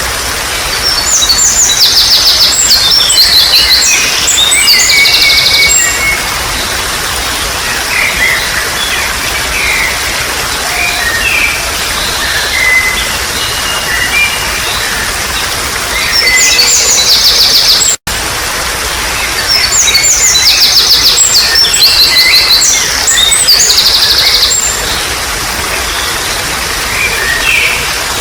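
Songbird singing over a steady trickle of running water. The bird gives long spells of rapid, high trills and chirps, one starting about a second in and another after the middle. The sound cuts out for a split second near the middle.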